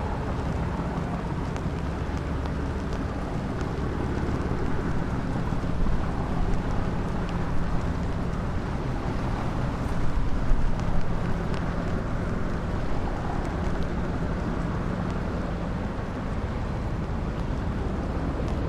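A boat's engine running steadily with a low hum, with wind noise on the microphone.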